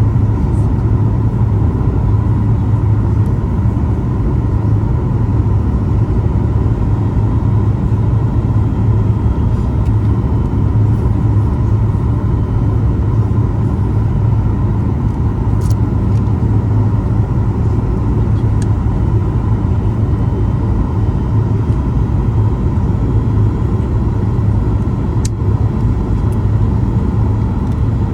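Steady cabin noise of a Boeing 737 MAX 8 in flight: a deep, even drone from its CFM LEAP-1B engines and the airflow, with faint steady whining tones above it.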